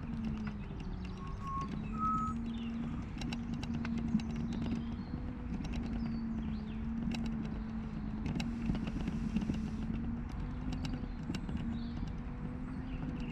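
Mini Crosser mobility scooter's electric drive motor whining at a steady pitch while driving over rough ground, with a low rumble and irregular rattling clicks from the bumps. A few short bird chirps come through about two seconds in and later.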